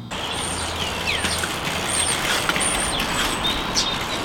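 Steady outdoor rush of background noise, like road traffic, with small birds chirping several times over it.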